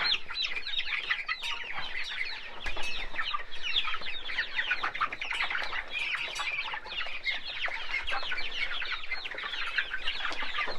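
A pen of young chickens peeping continuously: many short, high, downward-falling calls overlapping.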